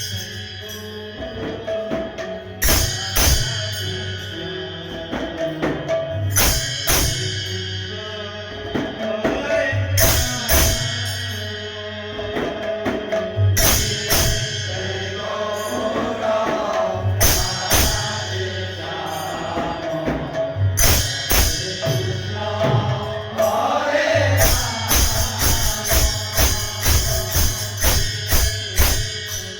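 Kirtan group's devotional music: jingling metal hand cymbals and drums keep a rhythm, with a big cymbal clash every few seconds over a held drone note. A voice sings in the middle stretch.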